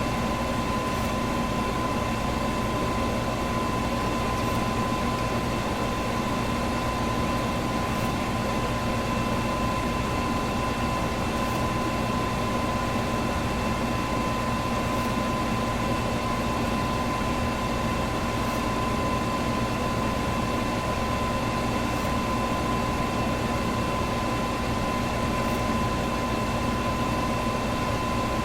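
Electric fan running at a constant speed: an even whooshing air noise with a steady hum and whine mixed in, unchanging throughout.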